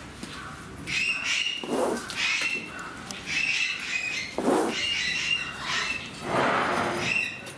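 Birds calling: short high chirps repeated about once a second, with a few louder, coarser calls lower in pitch in between.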